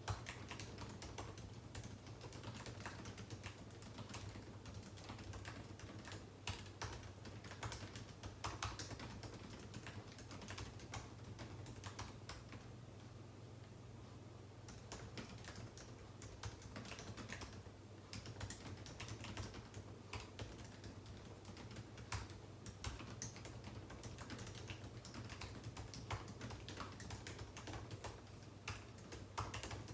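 Typing on a computer keyboard: quiet, irregular runs of key clicks, thinning out to a brief pause about halfway through, over a low steady hum.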